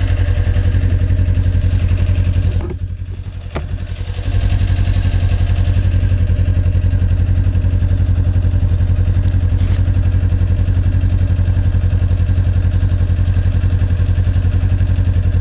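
Kawasaki Ninja 400 parallel-twin engine idling steadily, briefly muffled about three seconds in, with a few sharp clicks of handling gear near the microphone.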